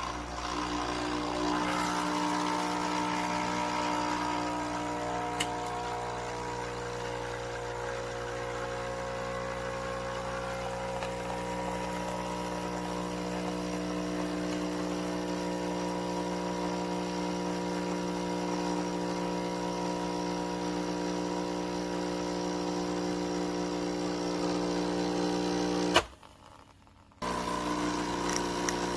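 Nescafé Dolce Gusto Genio 2 pod machine's water pump humming steadily as it brews a drink. Near the end the hum cuts out for about a second, then starts again.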